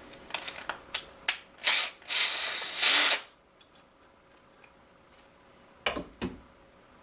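A screw being worked out of a door hinge with a driver bit: a run of sharp clicks, then a rasping burst about a second long as it turns out. Two knocks follow near the end.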